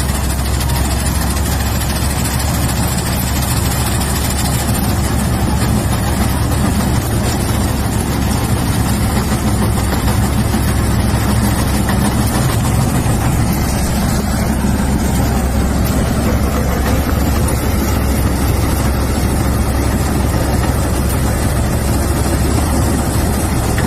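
Combine harvester running steadily: a loud, constant low engine drone with an even rush of machinery noise over it.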